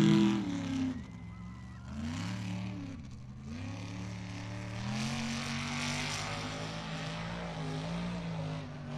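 Mud bog truck's small-block Ford V8 engine revving up and down, climbing and holding high in the middle, then easing off near the end.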